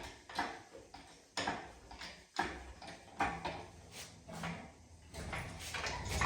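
Engine hoist and chains taking up an engine block's weight: a series of metallic clunks and clicks, roughly one a second.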